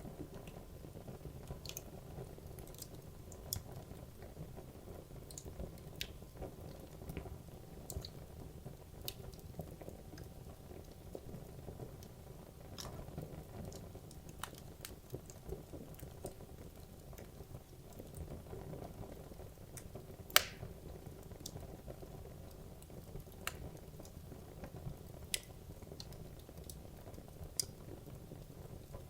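Wood logs burning in a fireplace: a steady low rumble of flame with scattered crackles and pops throughout, one sharper, louder pop about two-thirds of the way through.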